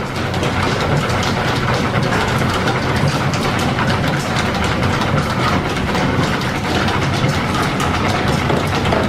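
Belt-driven machinery of an old line-shaft machine shop running steadily, with a fast, even clatter.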